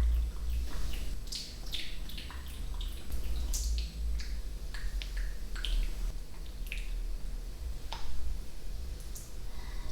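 ASMR mouth sounds close to the microphone: irregular wet tongue clicks and lip pops, a few each second, over a steady low hum.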